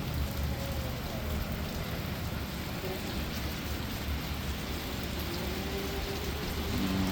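Steady rain falling and splashing on hard surfaces during a thunderstorm, an even hiss with a low rumble underneath.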